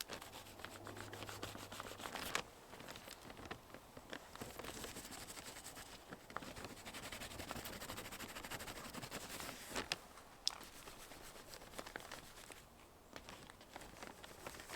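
Duct tape being pulled off the roll and torn, with scratchy handling as it is pressed over holes, and a few sharper rips.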